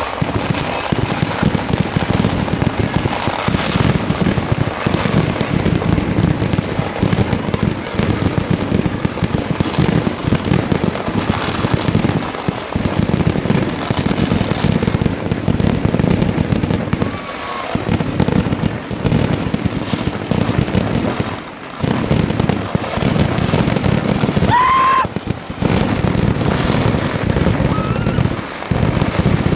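Festival fireworks display: a dense, unbroken barrage of firecracker explosions going off in rapid succession, with a few brief lulls. A short whistling tone cuts through near the end.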